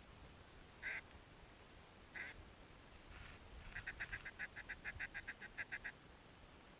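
Duck quacking: three single quacks, then a quick, even run of about fifteen short quacks lasting a couple of seconds.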